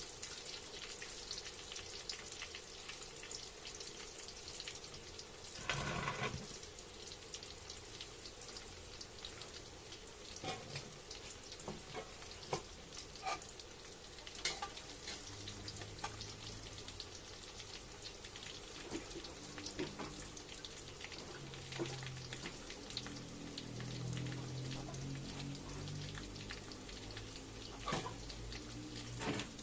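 Food frying in oil in a pan: a steady sizzle with scattered pops and crackles. A brief louder sound about six seconds in, and a low hum-like sound in the second half.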